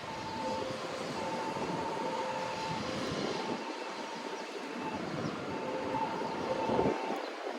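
A train running, with a steady rumble and a faint high tone that breaks off and returns every second or so.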